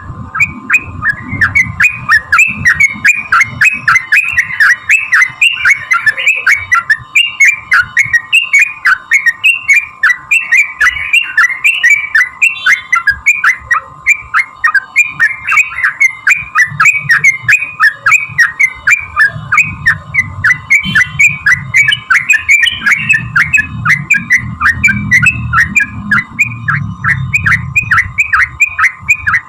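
Yellow-vented bulbul (trucukan) calling in a long, rapid chatter of short repeated notes, several a second without a break: the 'ropel' fighting call that keepers use to provoke other bulbuls into answering. A steady high tone runs underneath.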